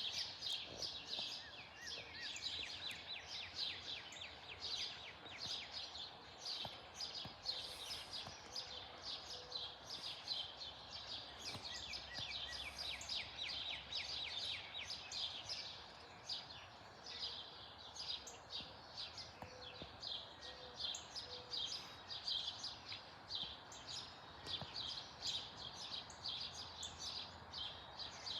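Many small birds chirping rapidly and continuously, over a faint, even background noise.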